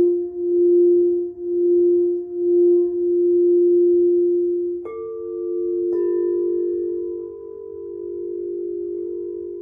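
Bell-like ringing tones held long. A low pure tone wavers in loudness about once a second at first, then steadies. New, higher tones are struck in sharply about five and again about six seconds in and keep ringing.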